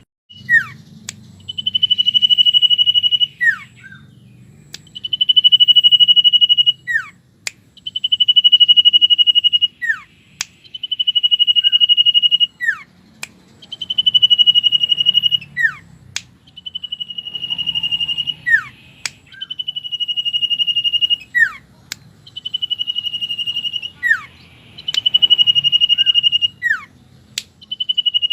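Common iora (cipow) singing: a long, steady, high whistle of about two seconds ending in a short falling note, repeated about every three seconds.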